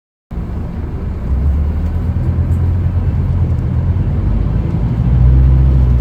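Scania K310UB bus's five-cylinder diesel engine running under way, a steady low drone that grows louder about a second in and again near the end.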